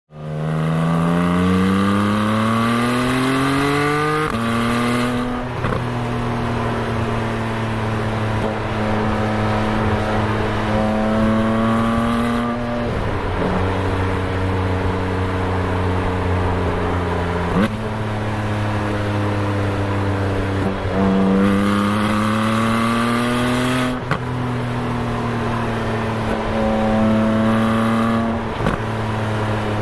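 Exhaust of a Porsche 718 Spyder's 4.0-litre naturally aspirated flat-six, picked up close to one tailpipe at the rear bumper, which gives it a farty note at low revs. The car pulls through the gears on its PDK gearbox: engine pitch climbs, then drops at each quick shift, several times over.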